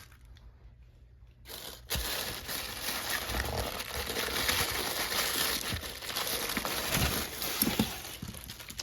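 Packing material crinkling and rustling as fan parts are handled in the box. It starts about two seconds in and runs on densely until near the end.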